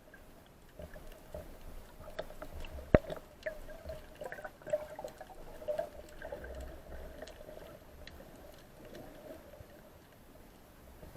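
Water gurgling and bubbling with scattered small clicks and crackles, typical of a camera recording underwater. There is one sharp, loud click about three seconds in.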